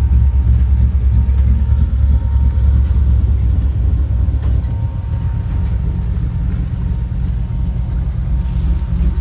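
Off-road truck engine running at low speed while crawling over a trail obstacle: a steady low rumble that eases slightly about halfway through.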